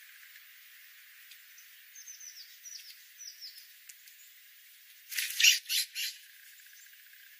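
Bird calls: a run of short, high, falling chirps, then about five seconds in three loud, harsh squawks in quick succession.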